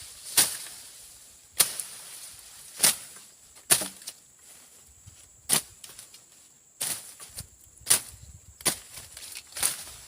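A hand blade slashing through brush and grass in repeated sharp swipes, about nine strokes at roughly one a second with a short pause in the middle.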